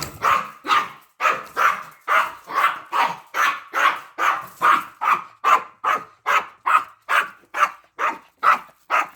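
Dog barking without pause in a fast, even series of short barks, about two to three a second.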